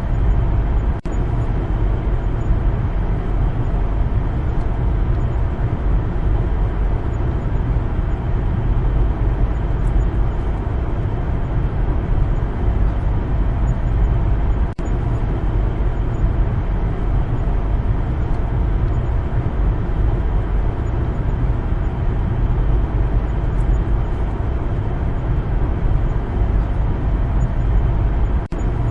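Steady low rumble of a car driving: engine and tyre road noise, dipping briefly about a second in and again midway.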